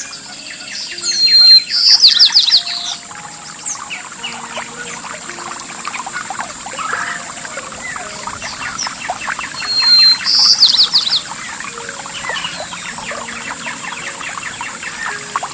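A songbird sings twice, about a second in and again about ten seconds in; each phrase is a short high whistle followed by a rapid trill. Under it runs the steady rush of flowing water, with a thin, steady high hiss above.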